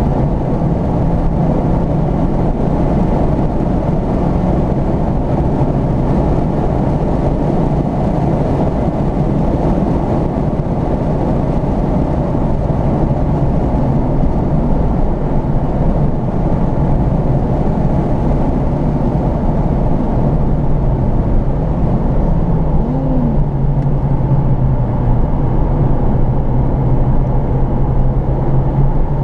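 Ford Focus RS Mk2's turbocharged five-cylinder engine running at speed, heard inside the cabin over steady road and wind noise. The engine note dips and climbs again about three-quarters of the way through.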